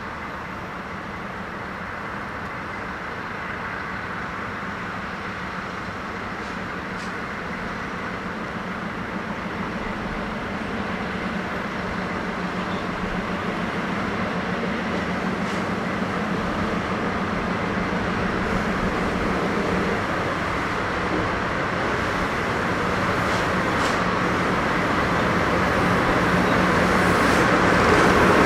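A train approaching on the rails, getting steadily louder, over a steady hum.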